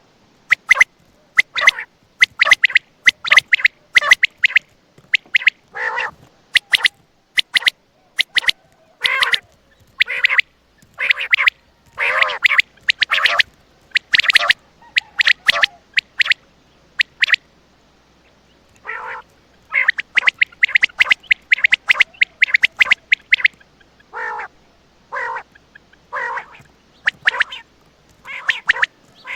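Quail calling, short raspy notes repeated in quick runs with brief pauses between them, and one longer lull about two-thirds of the way through.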